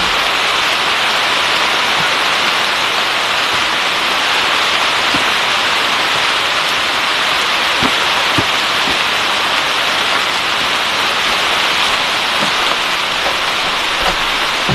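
Heavy rain falling steadily, with a few faint knocks of drops here and there.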